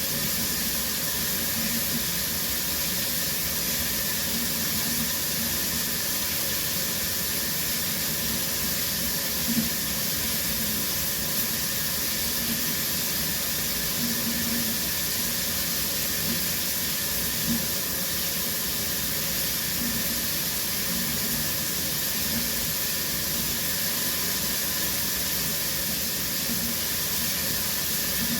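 Shower running steadily, a constant hiss of water spray falling, with a few faint brief splashes or drips.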